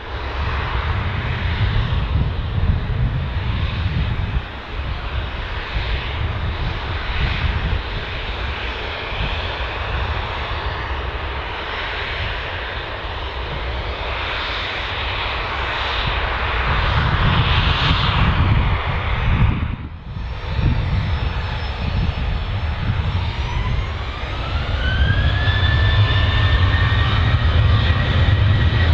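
Jet airliner engine noise: a dense, steady rushing sound with deep rumble underneath. After a short break about two-thirds of the way through, the engines spool up with a rising whine that levels off into a steady high-pitched tone over a low rumble.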